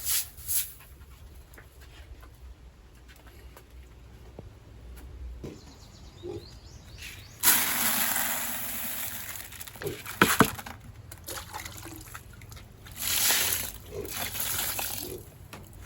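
Water pouring and splashing in bursts. A sudden rush starts about halfway through and lasts about two seconds, with a few knocks just after it and more bursts of pouring near the end.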